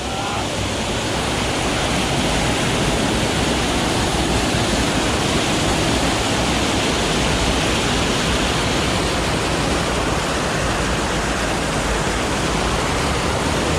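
A swollen rainy-season jungle stream rushing and splashing over rocks: a loud, steady rush of water with no breaks.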